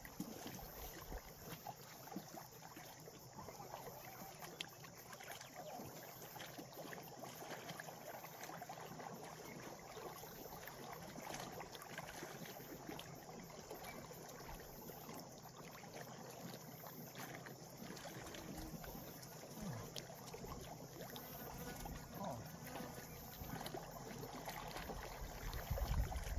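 Gentle water lapping: a faint, steady crackle of small splashes.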